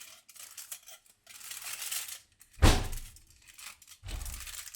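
Crinkling and rustling of a wrapping being handled, with a sharp loud thump about two and a half seconds in and a low rumble near the end.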